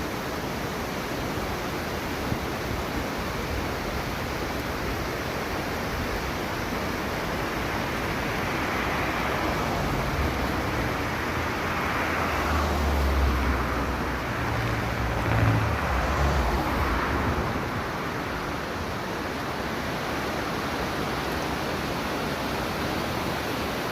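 Seasonal waterfall rushing steadily. About ten seconds in, a vehicle passes on the road with a low rumble that swells and fades over several seconds.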